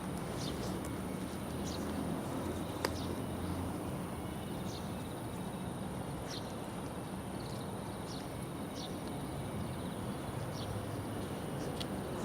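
Steady rush of flowing river water, with a steady high whine and short high chirps scattered through it, and one sharp click about three seconds in.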